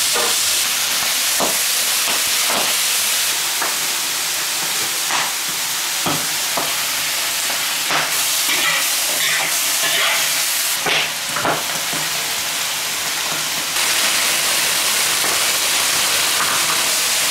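Wood ear fungus and tofu puffs sizzling in a large iron wok, a steady hiss of frying, with a metal spatula scraping and knocking against the wok at irregular moments as they are stir-fried.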